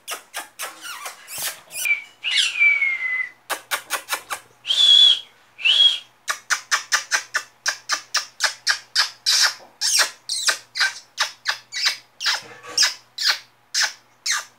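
Baby parrot chirping in quick, short, sharp calls, about three to four a second, with a falling whistle about two seconds in and two brief higher calls around five seconds in.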